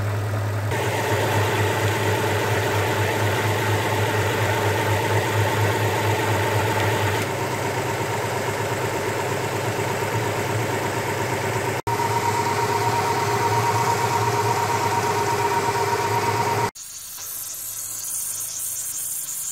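Quad-cam 24-valve car engine idling steadily while heat-soaked near 100 °C coolant temperature. Near the end the engine stops and a quieter hiss is left: hot coolant steam escaping at a loose radiator hose clamp.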